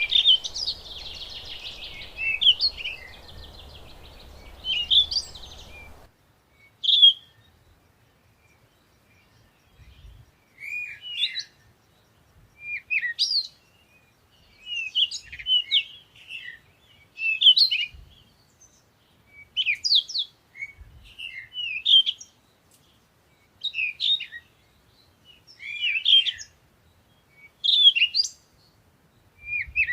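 Songbird singing short chirping phrases, repeated every second or two. For the first few seconds a buzzing trill over background hiss runs alongside, then stops abruptly.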